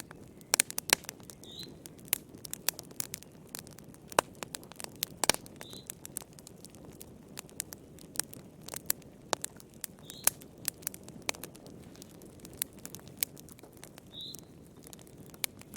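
Wood fire crackling in a fireplace: irregular sharp pops and snaps over a soft, steady rush of burning.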